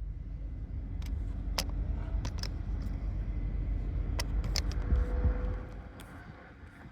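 Car running, a heavy low rumble with scattered sharp clicks and rattles, dropping away about six seconds in.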